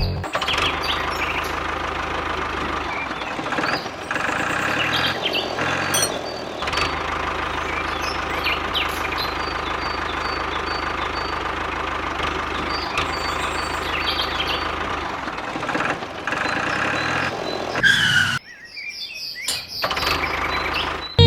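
A small motor running steadily. It drops away sharply for about a second near the end, then comes back.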